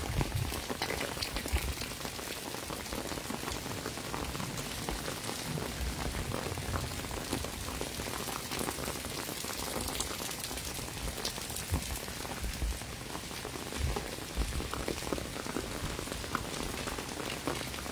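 Steady rain falling on a wet paved street, an even hiss dotted with many sharp ticks of single drops close by. A few low thumps stand out here and there.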